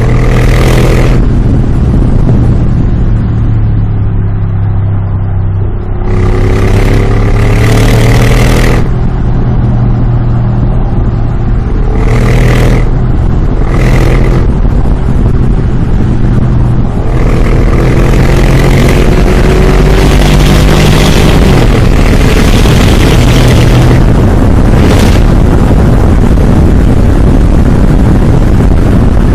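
Mercedes G63's biturbo V8 through a Brabus exhaust system, loud, idling and blipped repeatedly with the throttle. Several short revs come in the first half, then the engine is held up at higher revs for several seconds past the middle before one more short blip.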